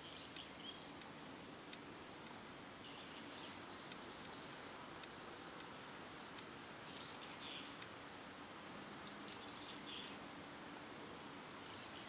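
A wild songbird singing short, high phrases about every two to three seconds, faint over a steady outdoor hiss.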